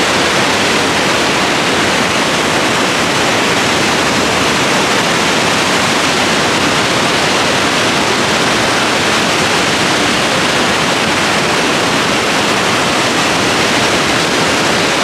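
Victoria Falls on the Zambezi, its water plunging over the falls: a loud, steady, unbroken rush of falling water and spray.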